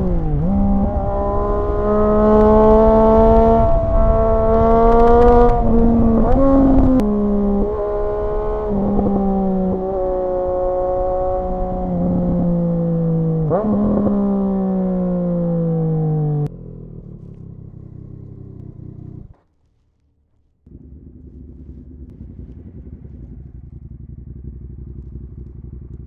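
Triumph motorcycle engine and exhaust under way, the pitch climbing and then dropping at each gear change several times, then falling steadily as the bike slows. About two-thirds of the way through it drops to a much quieter low running sound, which cuts out completely for about a second.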